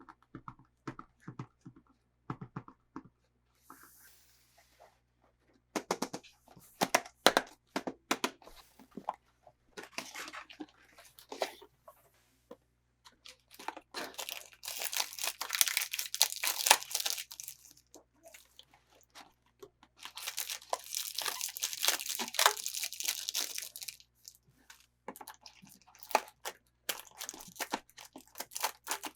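Toy packaging being unwrapped by hand: crinkling and tearing with scattered sharp clicks, and two longer stretches of dense crinkling about halfway through and again a few seconds later.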